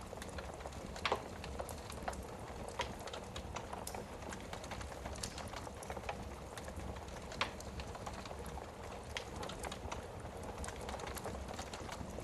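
Wood burning in an open fireplace: irregular crackles and small pops over a steady low rumble, with a sharper pop about a second in and another past the middle.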